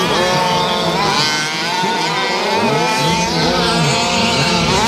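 Several 1/5-scale gas RC trucks racing, their small two-stroke engines buzzing and revving up and down over one another as they accelerate and back off around the track.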